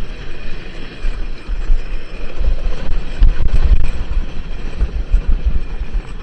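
Roller coaster ride: wind buffeting the microphone over a loud, uneven low rumble from the train running on the track.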